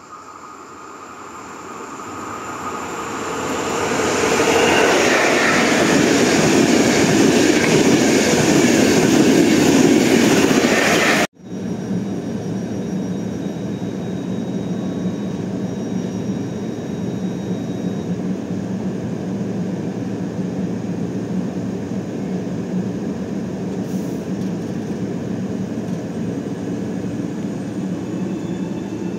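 Hitachi electric train pulling into the station, its running noise swelling over the first few seconds and staying loud until it cuts off suddenly about eleven seconds in. Then the train stands at the platform with its onboard equipment humming steadily.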